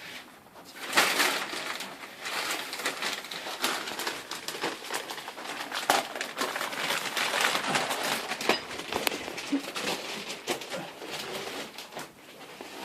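Dense rustling and scraping with many small knocks and clicks, as of materials being moved and handled, starting about a second in.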